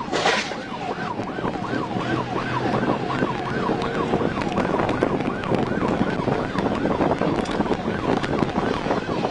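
Police car siren in a fast yelp, its pitch sweeping up and down several times a second, over road noise from the pursuing patrol car.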